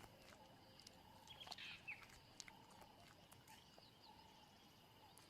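Faint natural bush ambience: steady high trills with scattered small clicks and a few short chirps.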